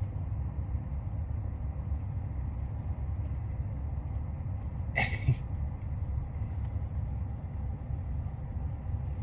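Steady low rumble of an idling vehicle engine, with one brief breathy burst about five seconds in.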